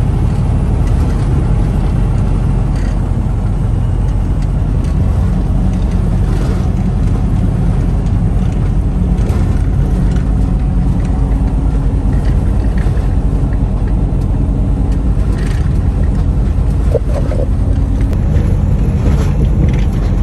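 Semi truck driving at highway speed: a steady, loud low rumble of engine and road noise.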